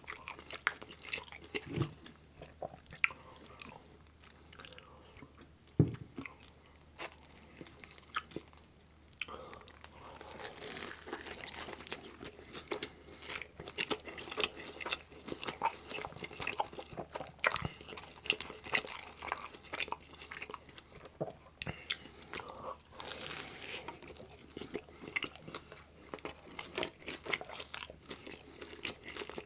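Close-miked ASMR chewing and biting of a meat-loaded pizza: irregular wet crackles and crunches of crust and toppings being chewed, with a few sharper bites.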